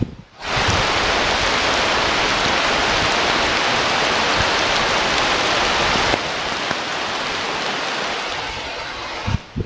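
Rain, a dense steady hiss that starts abruptly about half a second in, drops a little about six seconds in, and dies away near the end.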